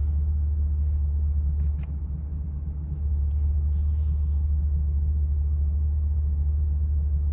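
The 2020 C8 Corvette's 6.2-litre LT2 V8 idling, a steady low rumble heard from inside the cabin. It drops a little for about a second, around two seconds in.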